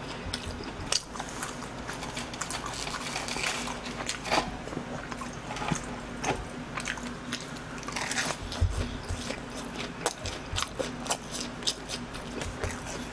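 Close-miked biting and chewing of BHC cheese balls, fried glutinous-rice dough balls with a cheese filling: many short, irregular crunchy clicks and soft mouth sounds.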